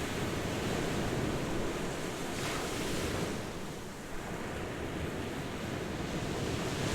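Ocean surf washing onto a shore: a steady rush of waves, with the brighter hiss of a wave breaking about two and a half seconds in.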